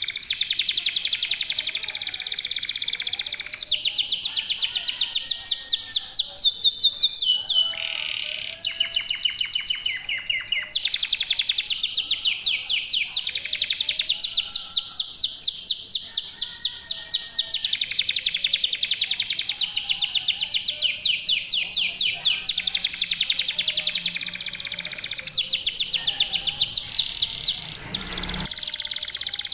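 Local canaries singing long, fast trills of rapidly repeated high notes, with brief breaks about eight and a half seconds in and near the end.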